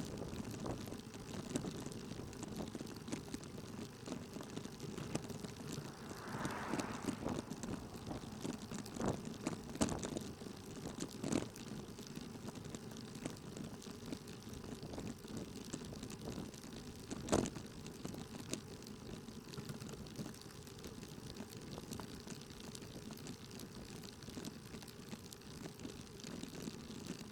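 Steady low road noise inside a moving vehicle, picked up by a dashcam, with a brief hiss about six seconds in and a few sharp clicks or knocks, the loudest about 17 seconds in.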